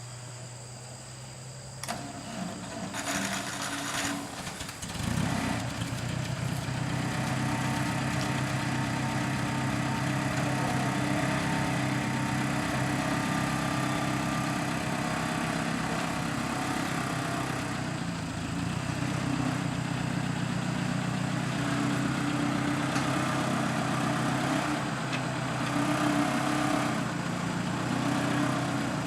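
Ford 600 tractor engine being cranked, catching about five seconds in and then running steadily at idle.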